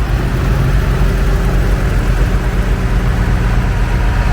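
Old farm tractor engines running steadily at low speed as tractors drive by in a line, a continuous low, even engine hum.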